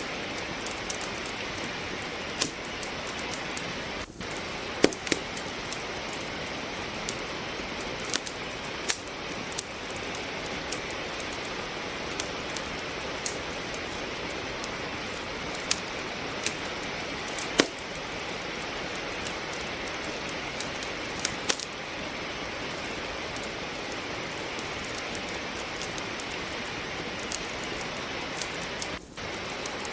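Steady rain hiss with a wood fire crackling in a fireplace: scattered sharp pops and snaps over the even patter, a few louder pops standing out. There is a brief drop-out about four seconds in and another near the end.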